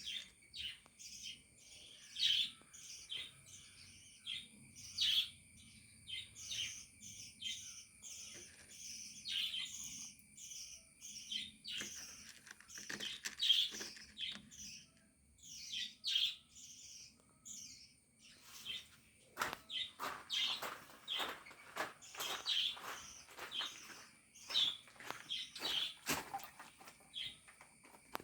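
Budgerigars chirping and chattering without pause, a stream of quick, short, high calls, with a run of sharper, louder chirps about twenty seconds in.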